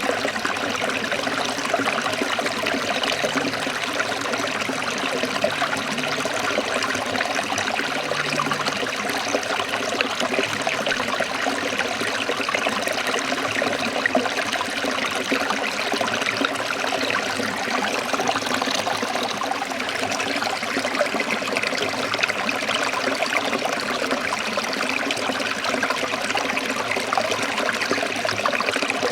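Forest stream trickling and splashing steadily, an even, unbroken rush of running water.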